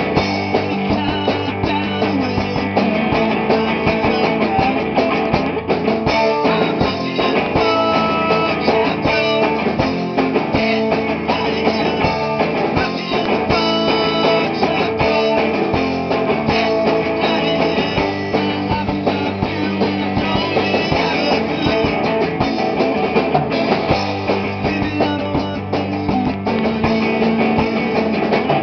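Rock band playing live at practice: loud electric guitars strumming over a drum kit, filling the room without a break.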